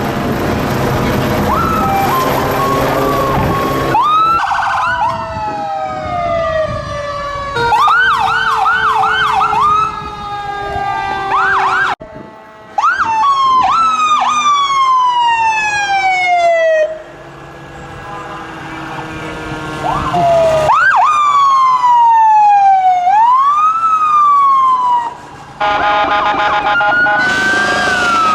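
Several emergency-vehicle sirens sounding over one another, from passing fire trucks and police cars. Some give long wails falling slowly in pitch, others quick repeated yelps. Heavy engine noise fills the first few seconds, and a steady blast of several tones together comes near the end.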